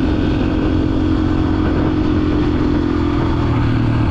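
Dirt bike engine running steadily at cruising speed.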